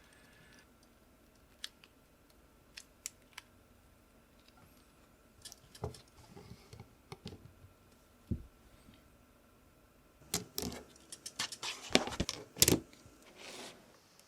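Irregular clicks and clacks from a small low-profile keyboard with Kailh Choc Red switches: a few sharp single ticks at first, a couple of duller knocks midway, then a dense flurry of clacks near the end.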